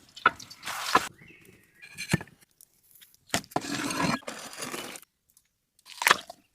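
Crunching and tearing of crispy roasted chicken, in several short, irregular bursts with sharp cracks, broken by abrupt silent gaps.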